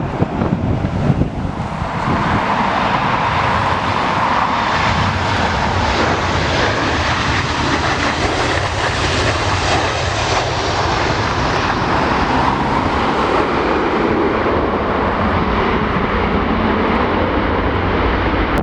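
Jet airliner engines running as the aircraft passes close by: a loud, steady rush that builds about two seconds in and holds, then drops off sharply at the end.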